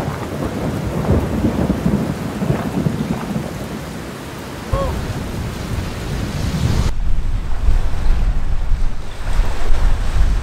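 Wind buffeting the microphone over small waves slapping against a kayak hull. The low wind rumble gets much heavier a little under halfway through.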